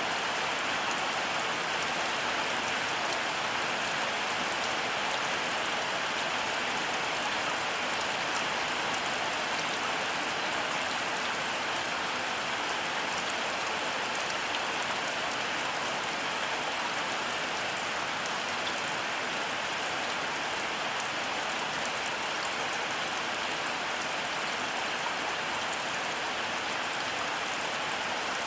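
Heavy rain falling steadily, a dense, even hiss of drops that keeps the same level throughout.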